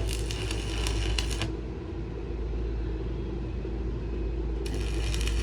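Steady low engine rumble, with stretches of dense crackling noise in the first second and a half and again near the end.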